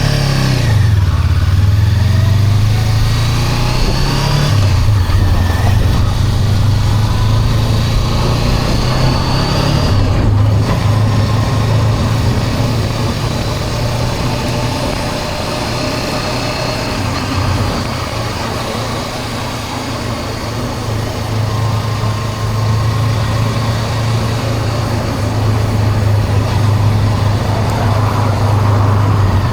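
Honda CB400X parallel-twin engine running under way, with rushing noise over it. Its note climbs over the first few seconds, drops at a gear change, then holds steady at cruising speed.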